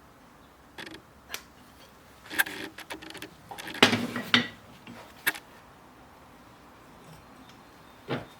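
A scattering of short clicks, knocks and scrapes, like tools and small hard objects being handled and set down, loudest a little before the middle, with one more knock near the end.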